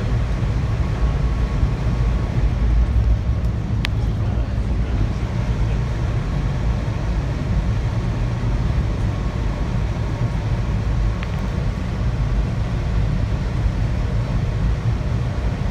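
Steady low noise of a passenger train running along the track, heard from inside the dome car, with a single sharp click about four seconds in.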